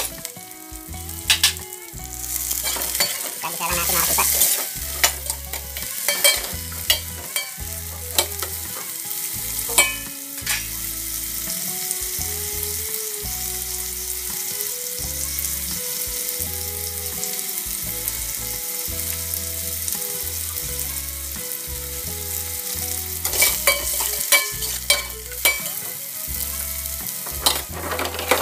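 Tomatoes, onion, garlic and ginger sautéing in hot oil in an aluminium pot, sizzling steadily. A metal ladle stirs and scrapes against the pot in clusters of clicks during the first ten seconds or so and again near the end.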